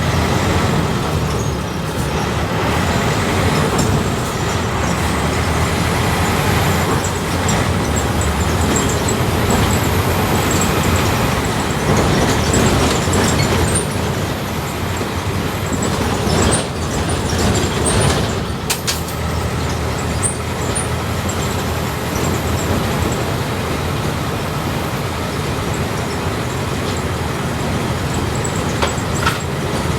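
Front-engined Volkswagen 17.230 OD city bus engine running under way, heard from aboard the Marcopolo Torino bus, its drone swelling and easing a little as it drives. A few sharp knocks and rattles come through around the middle and again near the end.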